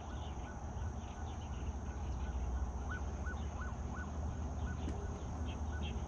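Outdoor ambience: a steady low rumble under a steady high insect drone, with about a dozen short bird calls at irregular intervals.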